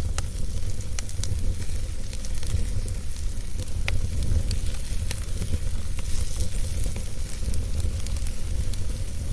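Wood fire burning in a fireplace: a steady low rumble and hiss under frequent, irregular sharp crackles and pops from the burning logs.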